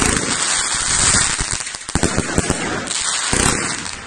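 Wijkse Waaier 2.0 fireworks fan cake firing: dense crackling and popping in waves, with brief dips about two seconds in and again around three seconds in.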